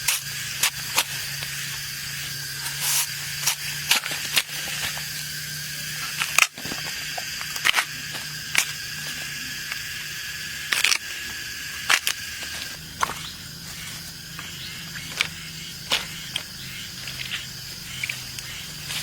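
Irregular sharp cracks and snaps, some in quick clusters, over a steady high drone of insects.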